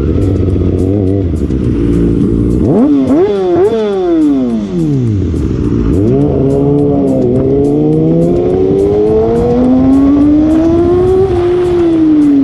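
Inline-four superbike engine with an aftermarket exhaust, cruising steadily and then revving hard through several quick upshifts. The revs fall away, build again in one long rising pull, and drop off near the end.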